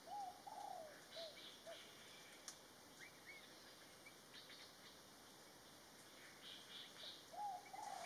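Forest birds calling faintly: a short phrase of low, arched whistled notes, each shorter than the last, at the start and again near the end, with thin high chirps scattered between.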